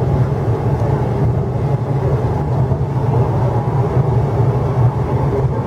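Running noise inside a moving MTR East Rail Line R-train electric multiple unit: a steady low rumble with no breaks.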